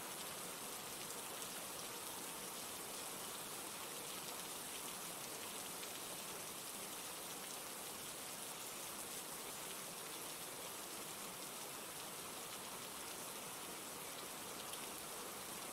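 Steady rain falling, an even hiss of drops with no change in intensity.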